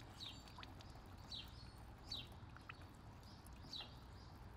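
Faint forest ambience with a small bird's short, high, falling call notes repeated about once a second.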